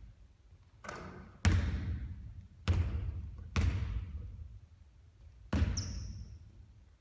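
Basketballs bouncing on a hard court during three-point shooting practice: about five separate echoing thuds, with a brief high squeak just after the last.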